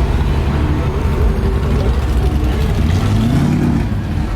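Car engine running with a deep, steady rumble, its pitch briefly rising and falling about three seconds in.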